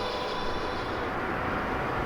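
Electric train running through a level crossing: a steady rumble of wheels and motors without a clear rhythm, building a little toward the end as it comes closer.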